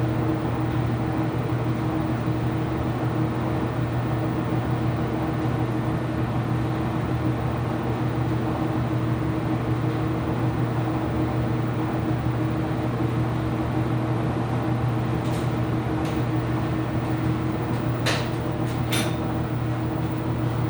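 Ipso commercial washing machine running mid-cycle: a steady mechanical hum, with a few short clicks near the end.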